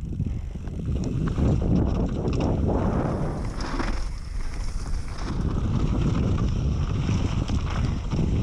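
Wind buffeting the camera microphone: a loud, steady low rumble that swells about a second in.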